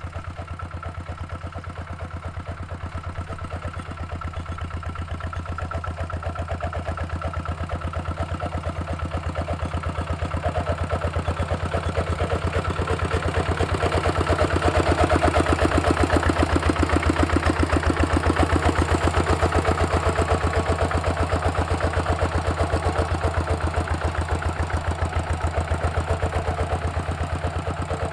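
Two-wheel walking tractor's single-cylinder diesel engine running steadily while plowing, with a rapid, even beat. It grows louder toward the middle and eases off a little near the end.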